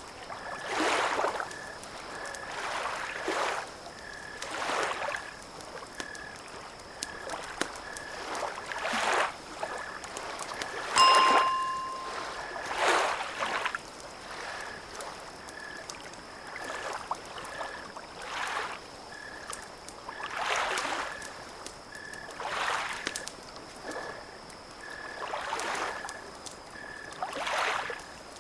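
Small waves lapping against a lakeshore in gentle swells about every two seconds, with a few faint crackles. A faint high tone pulses evenly throughout, and a short bright ringing tone sounds once about eleven seconds in.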